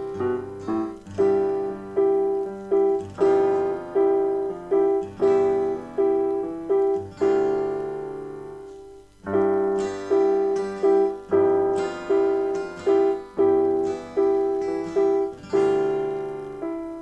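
Background music: a solo piano playing a gentle tune, its notes struck about twice a second and left to ring and fade, with a short pause about halfway through.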